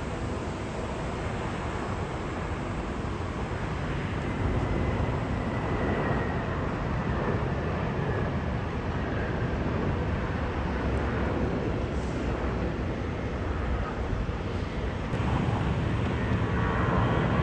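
Jet airliner engines, a steady wide rumble that grows louder near the end as a high engine whine comes in.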